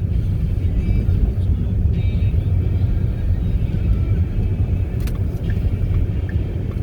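Car driving on a slippery, snow-covered road: a steady low rumble of engine and tyres.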